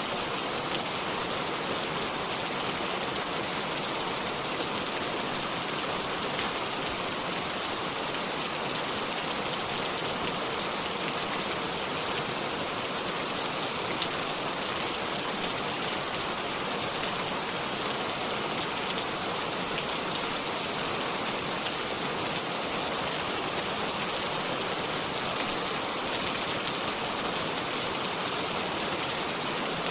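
Steady rainfall, a dense even hiss of drops with scattered individual drop ticks, no music.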